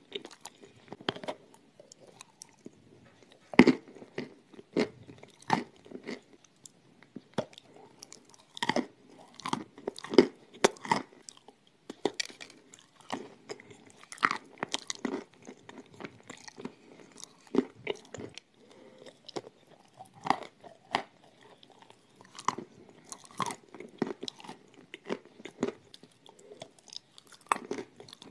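A person biting and chewing chunks of dry clay: sharp crunches at irregular intervals, several every few seconds, the loudest a few seconds in, with softer grinding chews between them.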